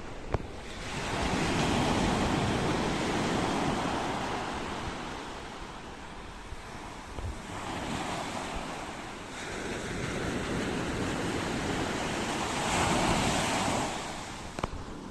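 Ocean waves breaking and washing ashore in slow swells, three surges rising and falling over several seconds each, with some wind on the microphone. A sharp click sounds just after the start and again near the end.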